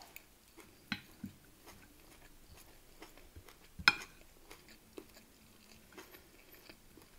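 Quiet chewing of a mouthful of rice and minced beef, with a few soft clicks and one sharper click just before four seconds in.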